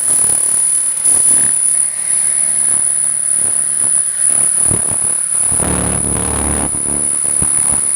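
Handheld pulsed laser cleaner ablating rust and paint from a steel truck frame: a steady high-pitched whine with irregular crackling underneath.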